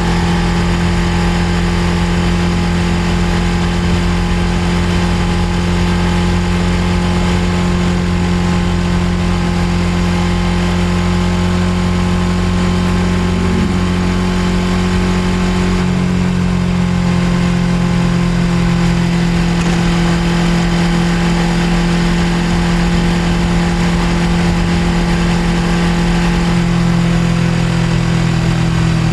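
Suzuki GSX250R's parallel-twin engine running at steady, even revs, with a slight change in tone about halfway through.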